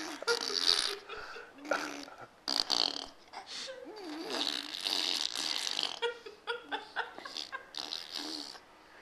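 A baby blowing wet raspberries, buzzing spit through her lips in repeated short bursts like a dirt-bike motor, between bits of voiced babble and laughter.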